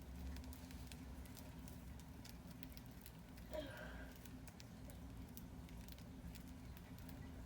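Pet birds shuffling and pecking, with scattered light clicks and taps. About three and a half seconds in there is one brief call. A faint low hum runs underneath.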